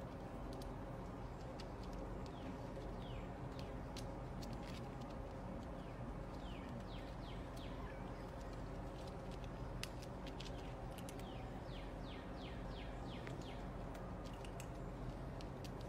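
Steady low background hum with birds chirping: runs of quick, high, downward-sliding notes, thickest through the middle. Scattered sharp clicks.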